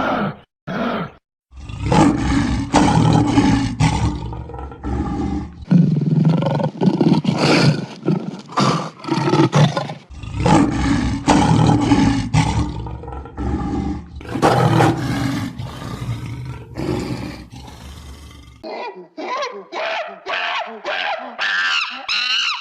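An animal roaring in long, rough, repeated calls, then a run of short, higher calls near the end.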